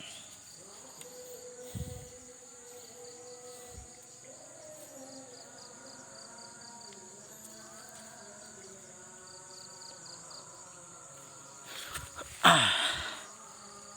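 Insects chirring steadily: a continuous high-pitched drone with an even pulsing trill beneath it. About twelve seconds in comes a short, loud noise, the loudest sound here.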